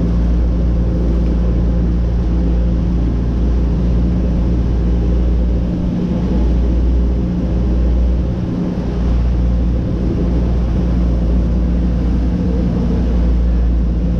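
Boat engine running steadily at an unchanging pitch.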